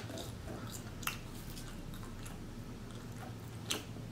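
Close-miked chewing of soft French fries: quiet wet mouth sounds and smacks, with a few sharper clicks about a second in and near the end.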